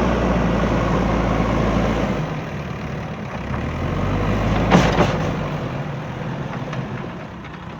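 JCB 3DX backhoe loader's diesel engine running, dropping in speed and loudness about two seconds in. A couple of sharp knocks come about five seconds in, and the engine then runs more quietly.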